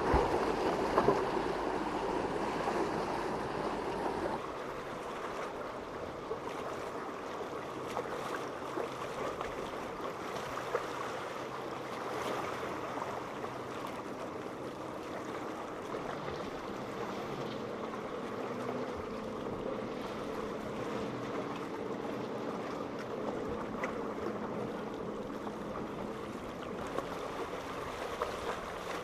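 Rushing water and waves with wind, over the steady drone of boat engines running through the inlet. The sound drops a little in level about four seconds in.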